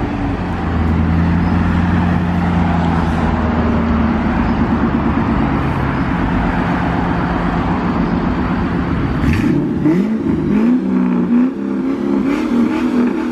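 Car engine held at steady high revs, then revved up and down in quick repeated swings for the last few seconds.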